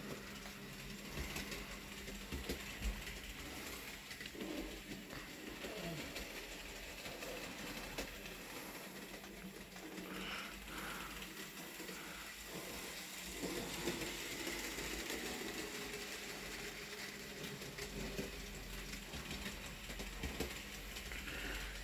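Bachmann Peter Sam model locomotive running along the track, its small electric motor and gearing whirring, with scattered clicks and rattles from the wheels and the wagons behind it.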